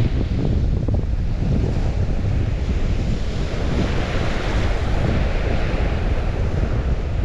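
River water washing and rushing, with wind rumbling on the microphone. The higher hiss of the water swells for a couple of seconds around the middle.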